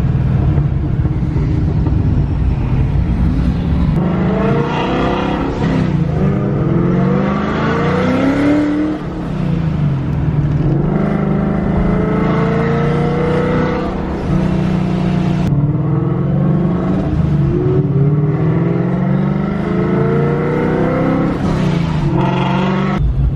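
A car engine revving hard again and again, its pitch climbing and dropping, over a steady low engine drone.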